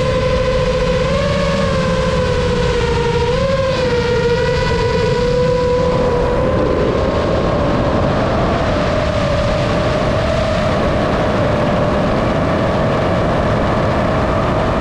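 RC model airplane's motor and propeller whining steadily in flight, with heavy wind rush. The pitch wobbles and dips at first, then climbs slowly over the second half as the rush of air grows louder.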